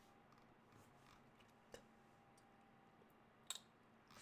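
Near silence: faint room tone with a low steady hum, broken by two faint clicks, one near the middle and one near the end.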